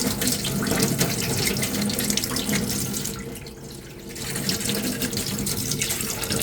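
Sandpaper rubbed back and forth by hand over a putty-coated armour piece, a continuous scratchy rasp that eases off for about a second just after the midpoint, then resumes.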